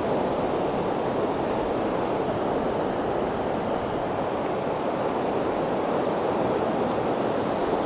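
Steady rush of ocean surf breaking on a beach, with some wind on the microphone.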